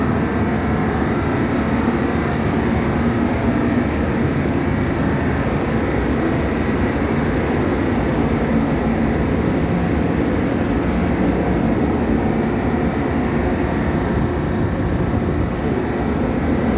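Steady low rumble of a ferry's engines heard aboard the ship, even and unbroken throughout.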